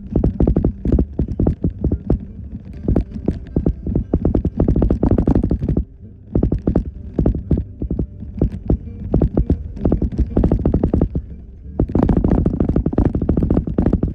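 Jeep Wrangler JKU Rubicon driving over a rough dirt trail: a steady low rumble under rapid, irregular knocks and rattles as it bounces, easing briefly about six seconds in.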